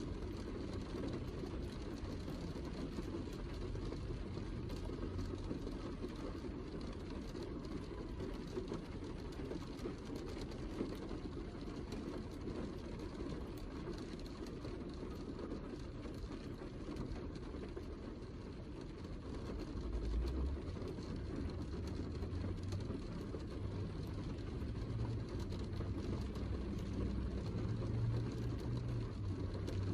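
Steady heavy rain, with a low rumble under it that swells about two-thirds of the way through and again near the end.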